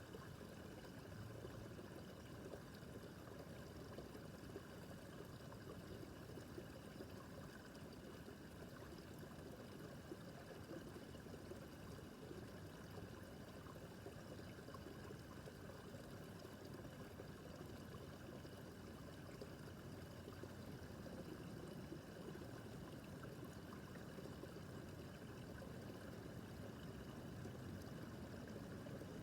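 Small brook babbling: a quiet, steady rush and trickle of shallow running water.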